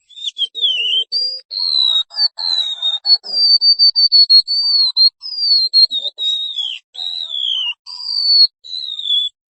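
A white-eye (pleci) singing a fast, unbroken run of high, thin whistled notes, many of them sliding downward in pitch, breaking off just before the end.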